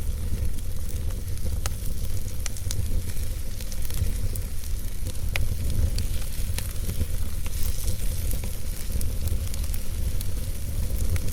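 Wood fire burning in a fireplace: a steady low rumble with scattered sharp crackles and pops from the burning wood.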